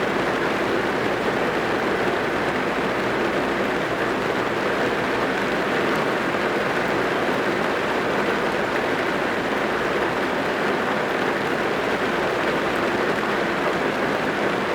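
Heavy rain drumming on a car's roof and windows, heard from inside the cabin as a steady, even hiss.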